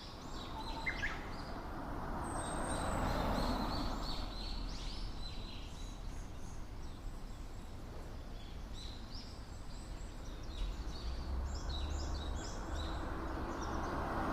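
A waterfall rushing steadily, with small birds chirping repeatedly over it.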